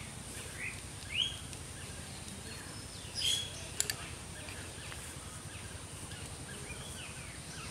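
Birds chirping in a few short rising calls over steady outdoor background noise, with a single sharp click a little under four seconds in.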